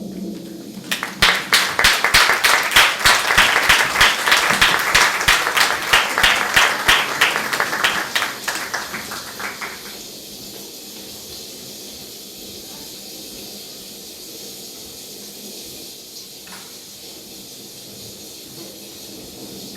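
Audience applauding, starting about a second in and dying away after about nine seconds, then a steady hiss with one small knock.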